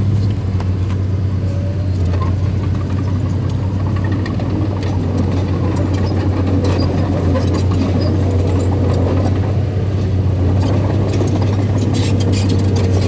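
Diesel engine of heavy earthmoving machinery running steadily with a strong low hum, with some clanking near the end.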